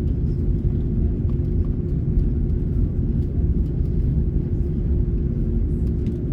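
Steady low rumble inside the cabin of an Airbus A330neo airliner, with a constant hum running through it.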